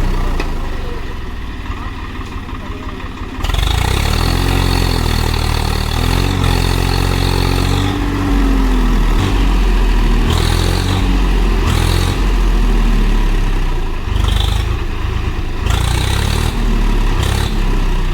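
Diesel tractor engines revving under heavy load, the pitch climbing and dropping in repeated surges while pulling a tractor and trolley out of deep mud. There is a sharp rise in revs about three and a half seconds in.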